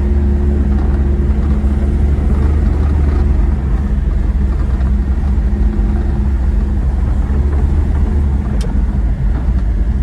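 Japanese mini pickup truck driving at a steady speed, heard from inside the cab: a steady engine drone over a heavy low rumble.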